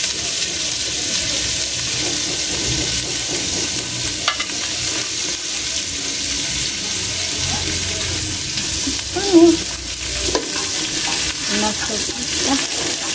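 Vegetables sizzling steadily as they are stir-fried in a pan, with a utensil stirring them and an occasional knock against the pan. A brief wavering sound stands out about nine seconds in.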